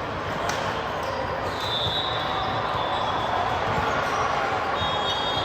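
Sports-hall noise during a volleyball match: a steady wash of voices and play from the courts, a single sharp hit about half a second in, and high-pitched squeaks coming and going.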